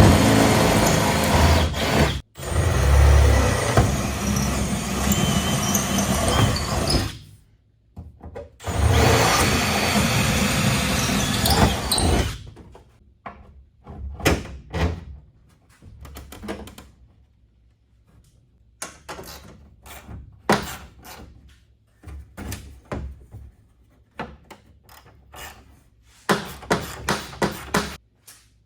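Power tool running in two long stretches on the transom work, then scattered knocks and clicks of handwork, ending with a quick run of sharp knocks.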